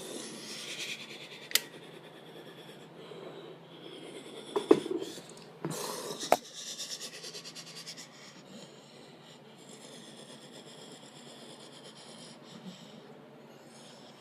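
Ryko Soft Gloss automatic car wash at work: cloth brushes rubbing and scrubbing over the car with a steady hiss, and a few sharp knocks in the first half.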